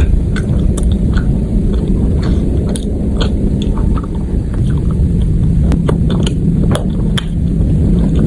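A person chewing and biting food close to the microphone, with many short crunchy clicks, over a steady low hum.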